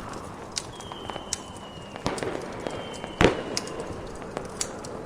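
Fireworks popping and crackling over a steady hiss, with a louder bang a little past three seconds in. A thin, slowly falling whistle sounds twice.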